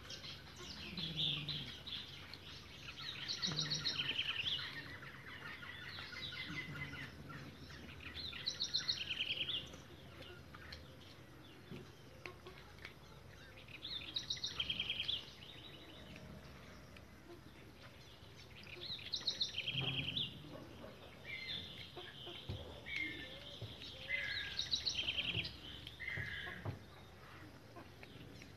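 Birds chirping: a short, rapid, high trilling phrase repeated about every five seconds, with fainter calls in between.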